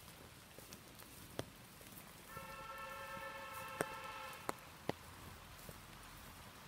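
Faint rain pattering with scattered single drops striking sharply, and a steady pitched tone with several overtones held for about two seconds in the middle.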